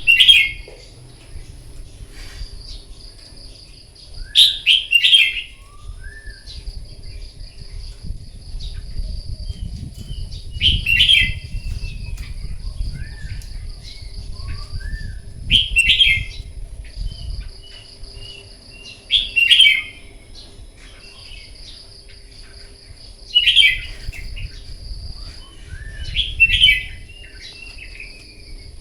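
Red-whiskered bulbul singing: a short, loud phrase of whistled notes about every four seconds, with softer single notes in between. A steady high-pitched buzz stops and starts behind it.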